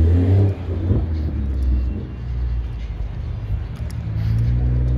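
A car engine running with a low exhaust drone that swells and shifts in pitch. It is loudest in the first half second and rises again near the end.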